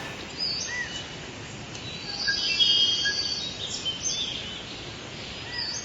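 Outdoor ambience: several birds chirping and whistling in short calls over a steady background hiss.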